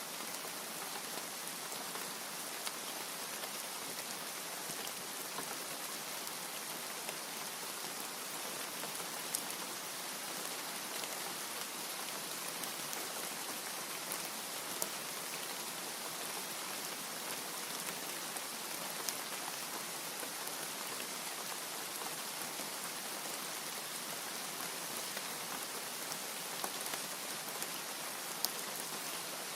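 Steady heavy rain, an even hiss with a few louder single drop ticks scattered through it.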